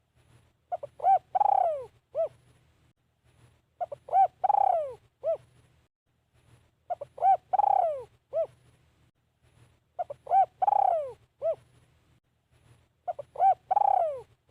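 Spotted dove cooing its territorial song about every three seconds, five phrases in all. Each phrase is two or three short coos, a longer coo that falls in pitch, and one short closing coo.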